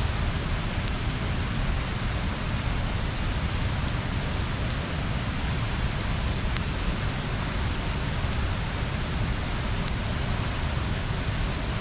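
Bonfire burning with a steady rushing hiss, broken by a few sharp wood crackles and pops.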